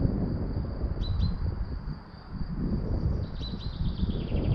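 A songbird gives a short call of two quick falling notes twice, the second time followed by a rapid run of notes. Under it is a low, gusty rumble of wind on the microphone that swells and fades.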